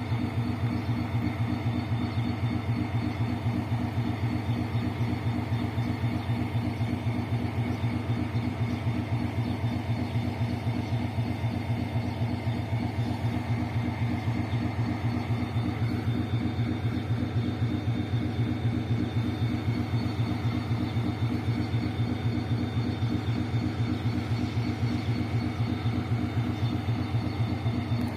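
Locomotive 040-GT565's engine running steadily: a low drone with a fast, even pulse that does not change.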